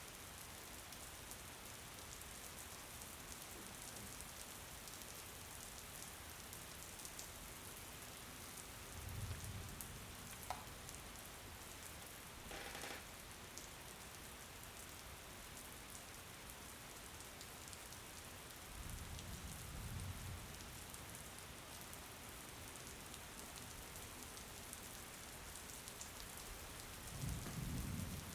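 Steady rain, an even hiss of falling drops, with three brief low rumbles about a third of the way in, about two thirds in and near the end.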